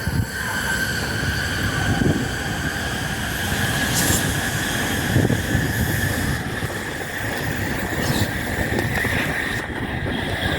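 Tokaido Shinkansen bullet train running past at speed: a loud rushing roar with a low rumble under it and a steady high whine that creeps slightly up in pitch.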